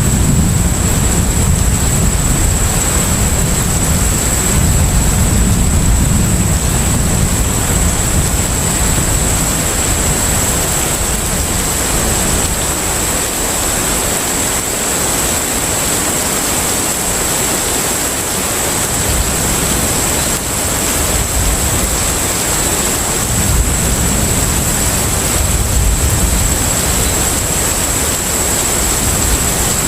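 Container ship at sea: a continuous rushing of water and wind over a deep rumble that swells, eases off through the middle and builds again near the end, with a thin steady high-pitched whine on top.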